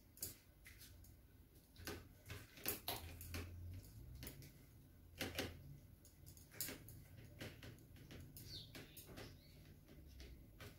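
Faint, irregular clicks and taps of kitchen utensils being handled, a few of them louder around two to three seconds in and again near the middle.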